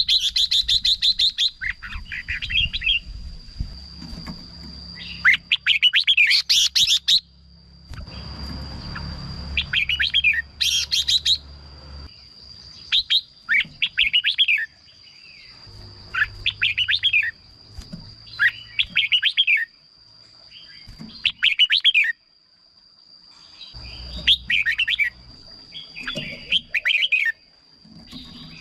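Red-whiskered bulbuls singing short, bright whistled phrases, one after another every second or two, over a steady thin high whine.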